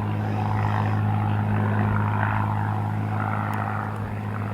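Cessna 182RG's six-cylinder Lycoming engine and propeller droning steadily in flight, an even low hum with no change in pitch.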